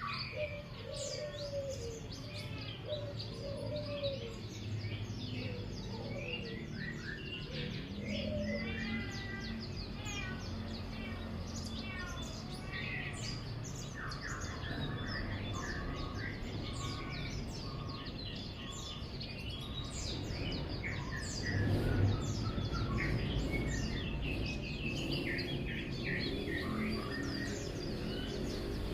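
Buxtoni white-eye (pleci) singing in the rapid, continuous 'ngeriwik' twittering style: strings of fast high chirps and trills with few pauses.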